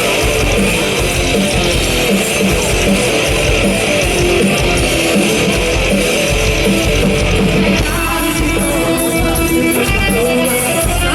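Live rock band playing, with strummed electric guitar over bass and a steady beat; the sound shifts about eight seconds in.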